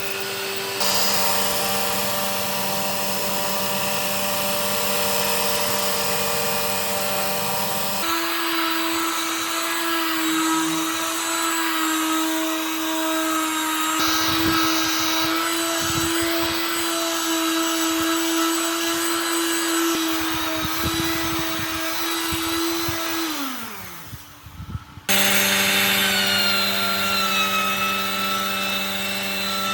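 Electric woodworking power tools running steadily, in several abruptly cut segments. Near the end one motor winds down, its pitch falling, and then another machine starts suddenly.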